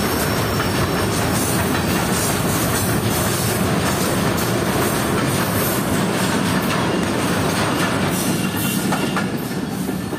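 Container freight train's wagons rolling past at close range, a loud steady rumble with wheels knocking over rail joints. Toward the end the last wagons pass and the sound begins to fade.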